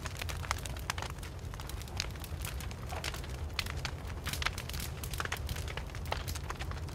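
Wood fire crackling: many small, irregular pops and snaps from the burning wood over a steady low rumble of the flames.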